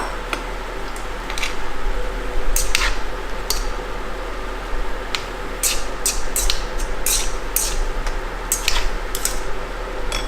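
Utensil clinking and scraping against a skillet as a shrimp and broccoli stir fry is tossed, with irregular sharp clicks over a steady sizzle.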